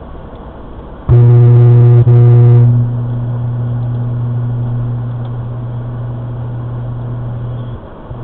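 A loud, low, single-pitched horn blast about a second in, cut briefly once, then falling to a steady low hum that fades out near the end.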